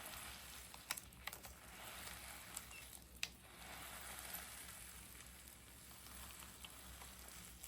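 A handmade squishy being slowly squeezed and released by hand, giving soft crinkling rustles that swell and fade with each press, with a few sharp little clicks, the loudest about three seconds in.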